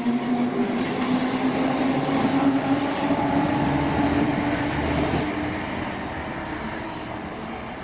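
A train running through a station, with a low whine that rises slowly in pitch for about five seconds; the sound drops away near the end.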